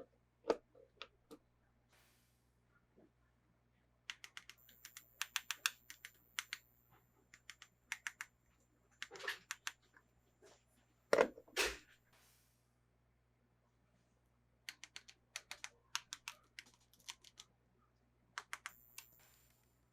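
Small plastic toy parts and packaging being handled: clusters of sharp clicks and taps with pauses between them, and a couple of heavier knocks about eleven seconds in.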